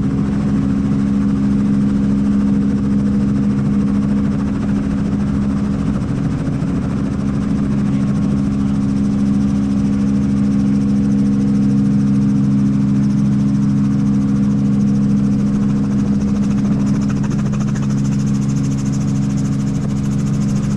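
Helicopter engine and rotors running, a steady loud drone with a low hum and a hiss over it.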